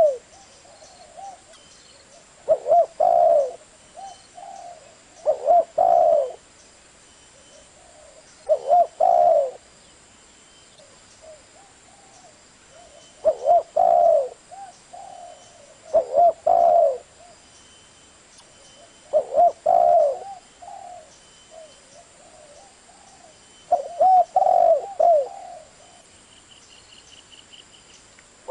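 Spotted dove cooing: a phrase of a few low coos repeated about every three seconds, about eight times.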